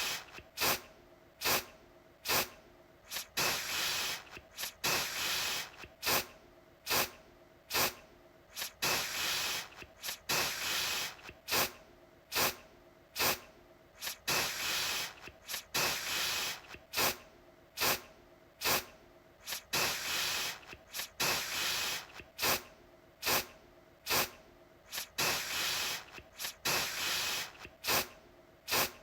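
Aerosol deodorant can spraying in short hissing bursts, each starting sharply, about one to two a second in an uneven rhythm.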